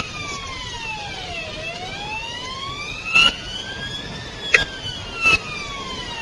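Police car siren in a slow wail, its pitch falling, then rising for about three seconds, then falling again, over steady road and engine noise. Three short, sharp knocks cut through it in the second half.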